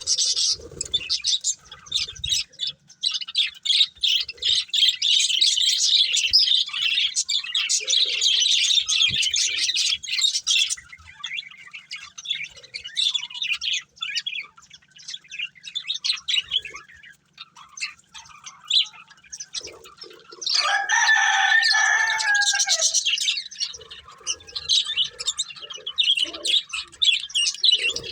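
Budgerigars chirping and chattering rapidly in a dense, high twitter that thins to scattered chirps about halfway through. About twenty seconds in, one longer, lower call lasts about two seconds.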